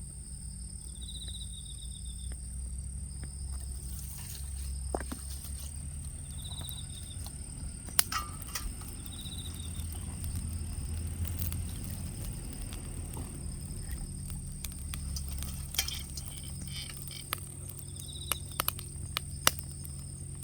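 Wood fire crackling under the wok, with scattered sharp pops: a loud one about eight seconds in and a cluster near the end, over a low steady rumble. Short high insect chirps repeat every few seconds over a steady high whine.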